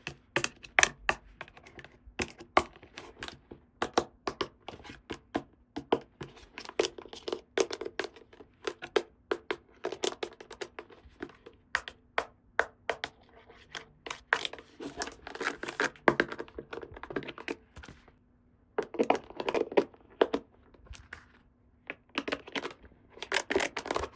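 Small plastic toy pieces and packaging being handled: a quick, irregular run of clicks and taps, with several bursts of crinkling and tearing and a brief pause partway through.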